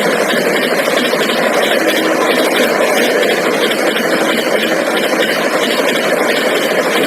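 Train running at high speed, a steady loud rumble and rush of wheels on rail.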